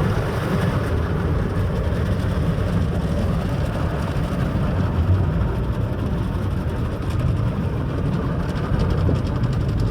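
Automatic conveyor car wash working over the car, heard from inside the cabin: a steady rumbling wash of water spray and machinery against the car body.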